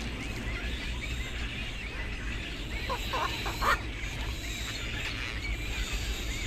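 Outdoor bird sounds: faint short chirps repeat throughout over a steady low rumble. A brief burst of louder, harsher calls comes about three seconds in and is the loudest sound.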